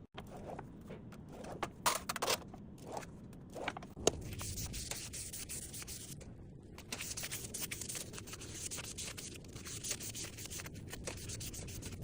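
A few sharp knocks and taps, then continuous scraping from about four seconds in, stopping briefly around six seconds and resuming: hand work such as filing or sanding on the campfire stand being repaired.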